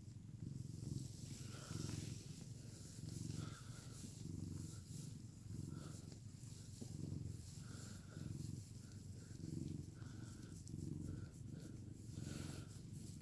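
Domestic cat purring steadily, the purr swelling and fading with each breath about once a second.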